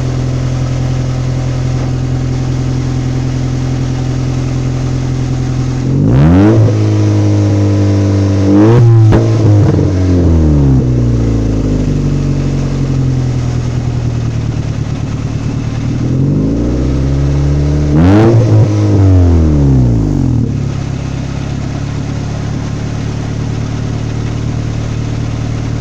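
Honda Civic's D16Y7 four-cylinder engine idling through a Thermal Research & Development muffler with side-exit exhaust. It is revved twice: about six seconds in it climbs and falls back, and again about sixteen seconds in.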